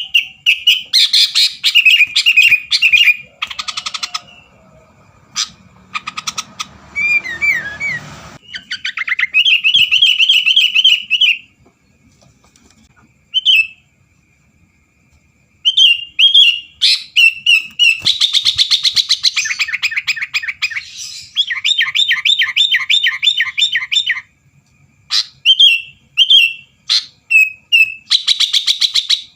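Sooty-headed bulbul (kutilang) singing vigorously: loud bouts of rapid, high chirps and trills, broken by a pause of a few seconds midway.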